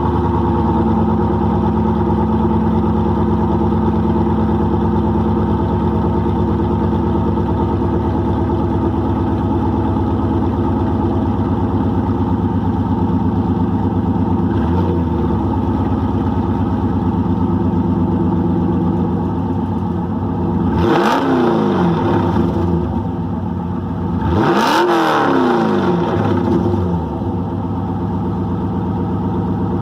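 A 2001 Camaro SS's LS1 V8 idling through SLP long-tube headers, a Y-pipe and a Texas Speed muffler with exhaust cutouts. It gets a light blip of the throttle about halfway through, then two stronger revs in the last third, each rising and dropping back to idle, and another starting right at the end.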